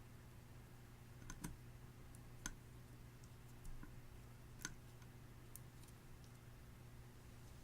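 Clear slime being worked by hand, giving a handful of small, scattered sticky clicks and pops over a faint steady hum.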